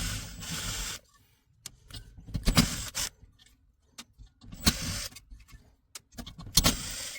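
Hands working on the metal parts of a diesel heater: a steady noise cuts off about a second in, then come three short bursts of clattering and scraping, about two seconds apart, with scattered clicks between them.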